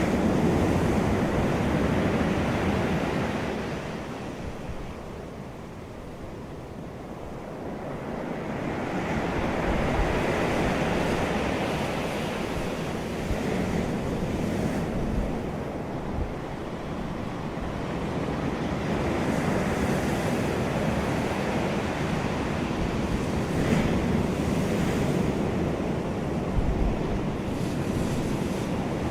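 Wind blowing in gusts across the microphone: a rushing noise that eases off about five seconds in and builds again a few seconds later, with low buffeting thumps.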